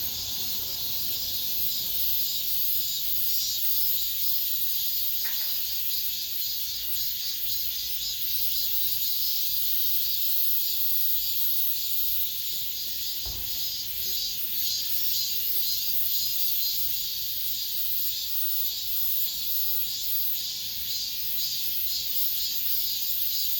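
Cicadas singing in a dense chorus: a loud, steady, high-pitched buzz with a fine pulsing texture.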